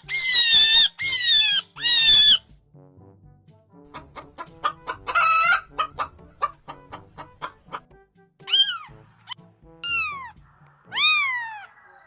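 A run of animal calls over faint background music: four loud, high calls in the first two seconds, then a chicken clucking with one louder squawk about five seconds in, and near the end three falling meows from a cat.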